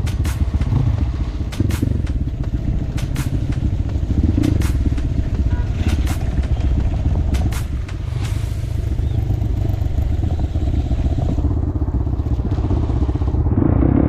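Motorcycle engine running steadily at low speed, with scattered sharp clicks over it during the first half.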